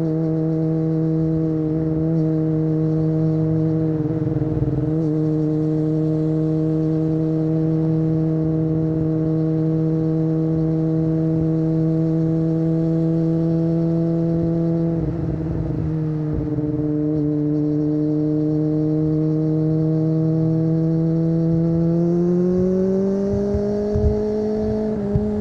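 Kawasaki ZX25R's 250 cc inline-four through an Akrapovic exhaust, running at steady cruising revs. There is a brief break in the engine note about fifteen seconds in, and the revs rise gently near the end.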